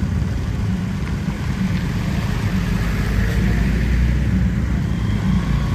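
Steady low drone of a moving bus's engine, with road noise over it.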